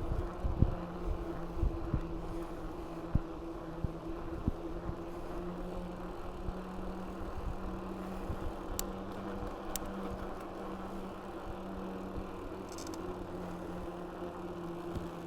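Riding noise from a mountain bike picked up by a bike-mounted action camera: a steady rolling rush with a low hum, thumps from bumps and wind in the first few seconds, and two sharp clicks a second apart about nine seconds in.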